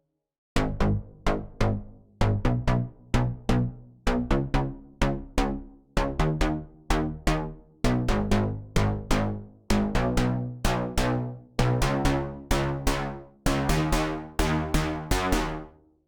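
Omnisphere software synthesizer factory preset playing a melodic phrase of short, plucked, percussive notes, each with a sharp attack and quick decay, about two or three a second. It starts about half a second in and stops just before the end.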